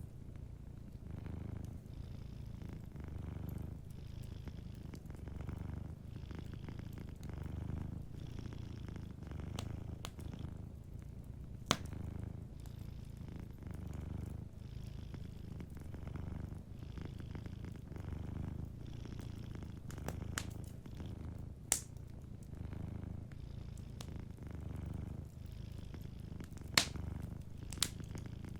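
Domestic cat purring, a low rumble that swells and fades with each breath in and out. A wood fire crackles beneath it, with four sharp pops in the second half.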